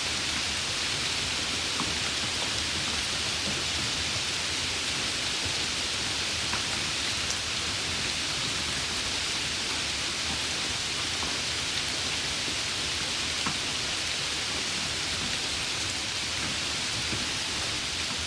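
Steady summer rain falling, an even hiss with a few scattered drop ticks.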